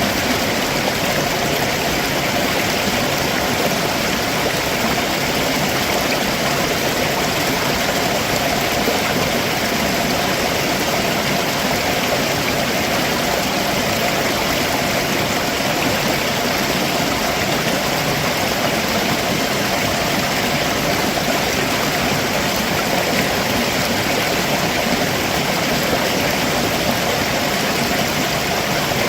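Stream water running and splashing over rocks, a steady, unbroken rush, with a waterfall just upstream.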